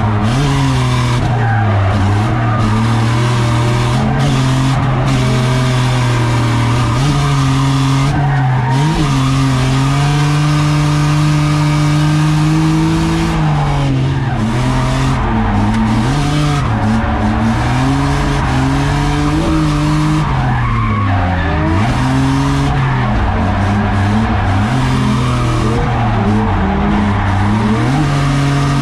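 BMW E30 drift car's engine held at high revs, its pitch dipping and climbing again every few seconds, with tyres squealing as the car drifts.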